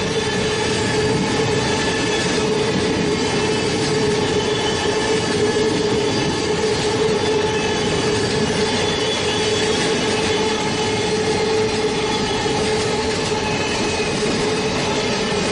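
Eurostar train running at steady speed: a continuous rumble with a constant, unchanging mid-pitched tone and its overtones held throughout.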